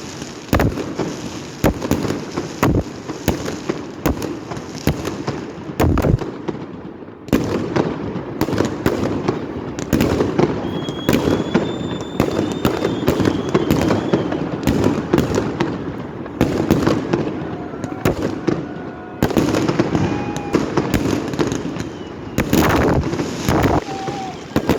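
Fireworks display: a rapid, irregular string of sharp bangs and crackles from bursting shells, easing briefly about seven seconds in.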